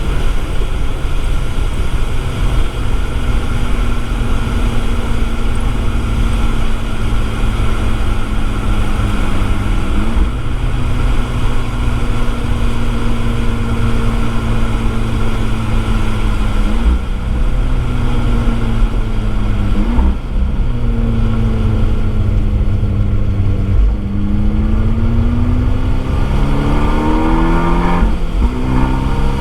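Abarth 595 Esseesse's turbocharged 1.4-litre four-cylinder through an Akrapovič exhaust, heard from a mic in the boot while lapping a circuit: the engine holds a steady note for the first half with a brief step about ten seconds in, then the pitch drops and swings down and up as the car slows and shifts down, and climbs again through quick upshifts near the end.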